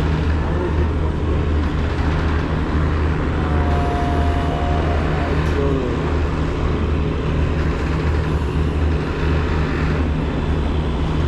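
Boat engine running with a steady low drone under a constant wash of noise. A brief steady tone sounds once, about three and a half seconds in.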